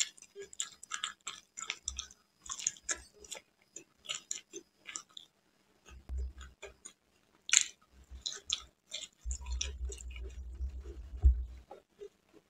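Close-up chewing of a syrupy fried imrati, wet sticky mouth clicks and smacks in quick succession. A run of low bumps comes near the end.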